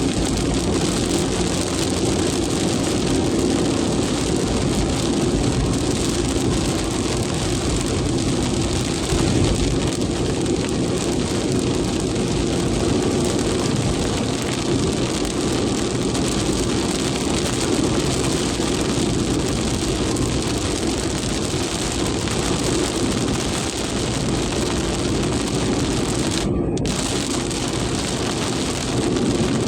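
Very heavy rain pouring steadily, a dense constant hiss with a strong low rumble underneath.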